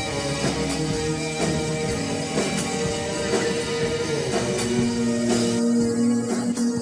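Live band playing an instrumental passage of a synth-pop song: a steady drum beat under long held notes, with no singing.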